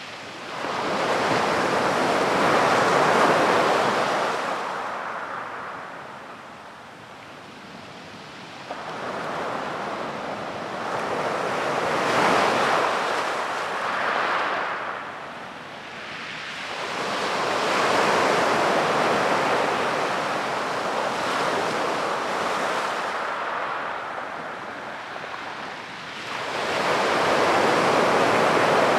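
Sea waves breaking on the shore, in four slow surges that swell and fade back, about one every eight seconds.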